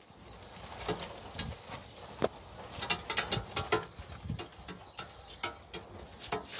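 Pigeons moving about in their pen or cage: irregular sharp clicks and taps, several a second, getting busier from about a second in.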